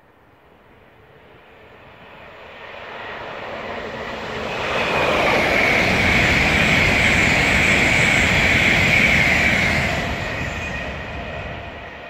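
LNER Azuma (Class 800/801) high-speed train passing through at speed. It builds from faint to loud over about five seconds, stays loud for about five more, then fades away near the end.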